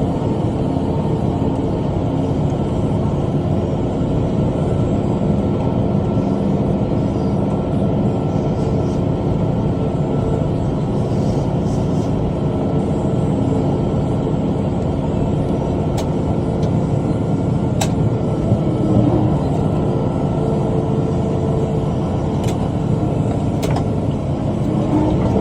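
Tractor engine running steadily under load while pulling a rotary cutter (bush hog) through brush, with a few sharp knocks in the second half.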